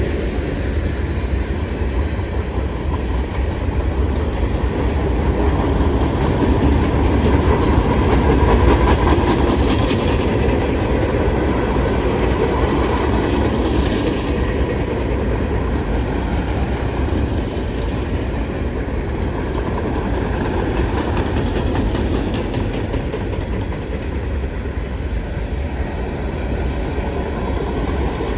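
Train cars rolling past on the tracks: a steady rumble with the wheels clicking over rail joints, the clicking most marked about a third of the way in.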